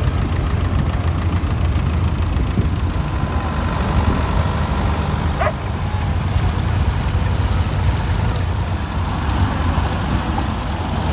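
Vintage tractor engine idling steadily, with a brief high-pitched sound about halfway through.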